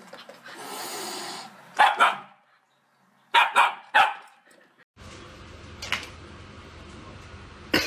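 Dog barking: two sharp barks about two seconds in, then three more a second and a half later. After that there is a steady background hiss with a short sharp sound near the end.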